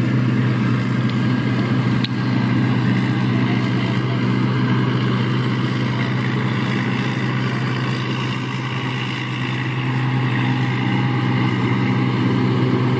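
Engine idling steadily, a low even hum with a thin high whine above it.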